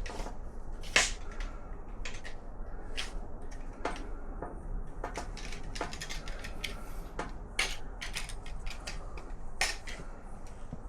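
Irregular clinks, clicks and light knocks of metal hand tools and engine parts being handled during an engine strip-down, with one sharper knock about a second in.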